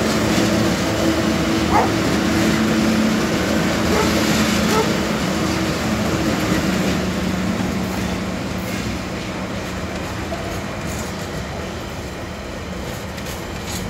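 Two TasRail TR-class diesel-electric locomotives passing close by, their engines running with a steady drone. From about eight seconds in, container wagons roll past with a rumble and clicking wheels, and the sound slowly fades.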